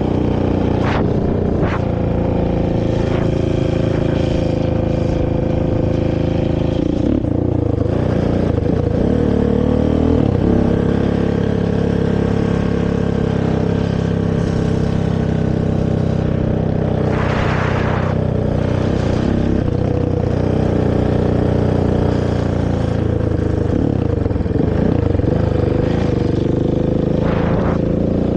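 Honda TRX450 ATV's single-cylinder four-stroke engine running through a stock exhaust, with the revs dropping and climbing again several times as the throttle is worked. A brief rushing hiss comes about two-thirds of the way through.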